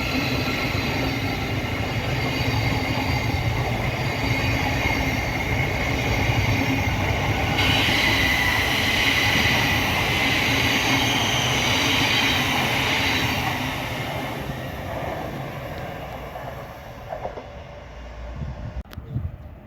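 Electric passenger train running past on the line, a steady rumble and rush of wheels and running gear with a harsher high-pitched wheel noise loudest from about 8 to 13 seconds in. The sound then fades away over the last few seconds as the train moves off.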